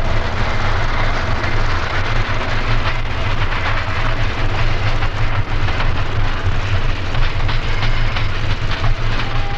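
South Shore electric interurban train rolling past, a loud steady rumble with the wheels clicking over the rail joints.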